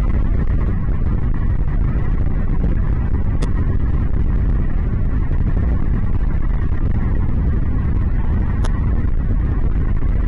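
Loud steady low rumbling noise with two brief high-pitched sounds, one about three and a half seconds in and one about eight and a half seconds in.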